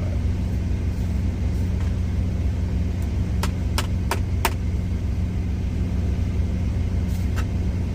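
Idling truck engine giving a steady low hum. A run of five sharp clicks about 3 seconds in, and two fainter ones near the end.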